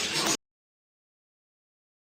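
Near silence: a moment of chirpy, wavering sound cuts off abruptly about a third of a second in, and the rest is dead digital silence.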